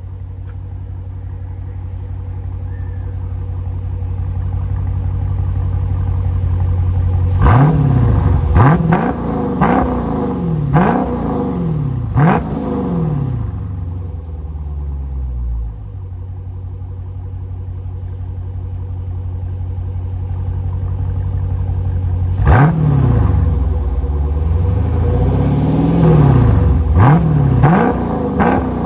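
Dodge Challenger Scat Pack's 392 HEMI V8 running through a freshly fitted exhaust with Vibrant 1794 units in place of the mid mufflers, idling steadily and blipped hard five times in quick succession a few seconds in. It settles back to idle, then revs again several times near the end, including one longer rev.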